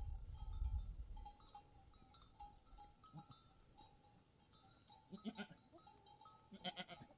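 Flock bells tinkling and clinking, with sheep and goats bleating twice near the end. There is a low rumble in the first second.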